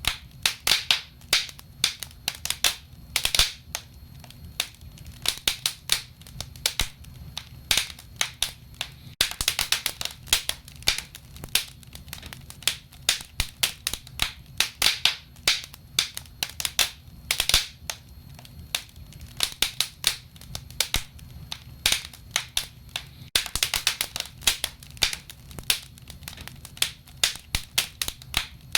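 Wood fire crackling in a stove: irregular sharp snaps and pops, with denser flurries of rapid crackling about a third of the way in and again past the three-quarter mark.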